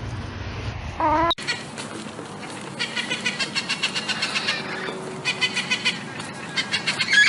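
Animal calls: a short pitched call about a second in, then, after an abrupt cut, runs of rapid high chirping pulses.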